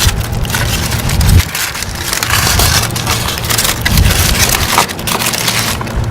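Aluminium foil crinkling and rustling as the sheets wrapped around a roast beef are peeled open one after another.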